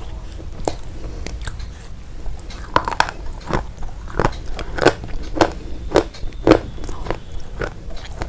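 A person chewing crunchy food, with crisp crunches that become louder and settle into about two a second from about three seconds in.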